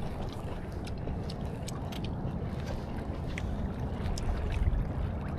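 Steady low rumble and hiss of water and wind around a small boat, with faint scattered ticks.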